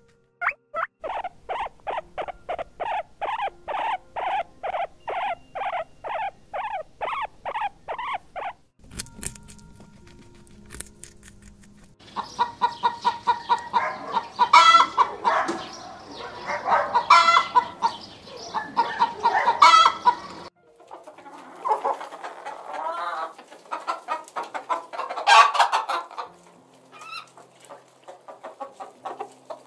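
A guinea pig squeaks in a steady run of short calls, about two a second, for the first eight seconds or so. After a brief lull, a flock of domestic hens clucks loudly and irregularly, in bursts, for the rest of the time.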